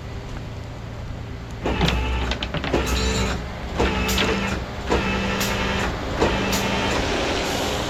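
Tow truck winch pulling a wrecked car sideways, over the truck's running engine. About two seconds in it gets louder, with a steady whine and repeated metallic knocks and clanks as the car drags over the blocks.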